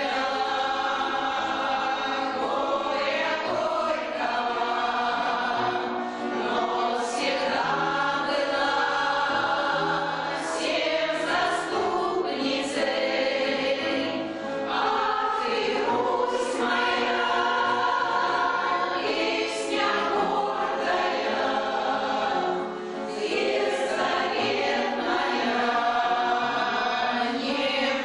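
A choir singing a song in several parts, in long sung phrases with short breaks between them.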